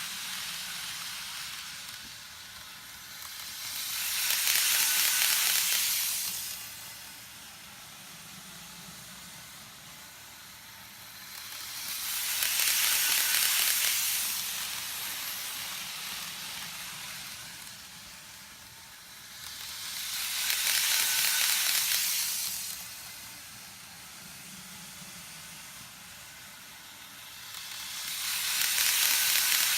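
Model trains (Microace E926 and Kato E257) running on a looped double-track layout: a steady whirring hiss of motors and wheels on rail that swells loudly four times, about eight seconds apart, as a train passes close by, then fades.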